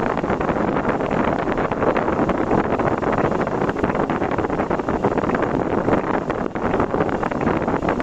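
Steady road and wind noise from a vehicle driving on a city road, a dense rushing sound with no distinct events.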